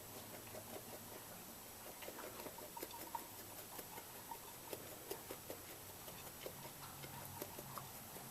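Powdered sugar being dusted over the brownies, heard as faint, light taps about two or three a second from about two seconds in.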